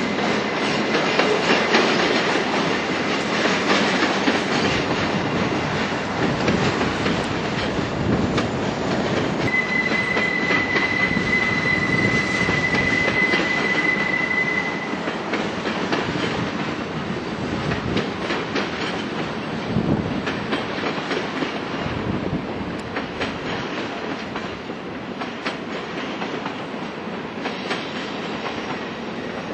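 A long manifest freight train rolling past, its wheels clacking steadily over the rail joints. From about a third of the way in, for some five seconds, a wheel flange squeals in one steady high tone on the spiral's curve.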